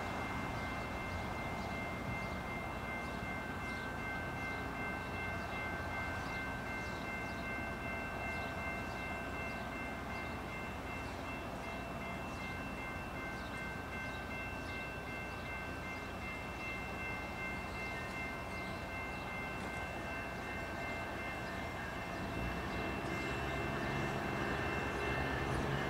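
Train noise across a rail yard: a steady high whine of several tones, with a low engine rumble that builds up about 22 seconds in.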